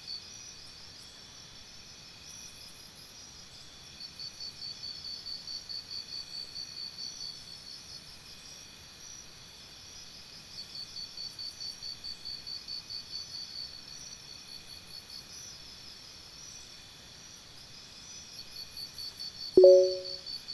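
Nature-sounds background of crickets chirping: trains of rapid high chirps come and go over a steady high insect hum. Near the end, two short, loud electronic beeps about a second apart.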